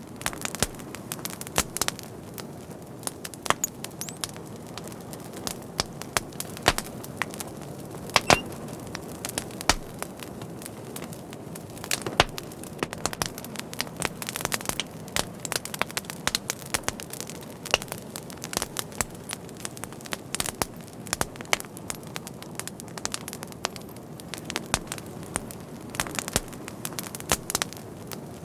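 Wood fire burning with a steady low hiss and frequent irregular crackles and sharp pops.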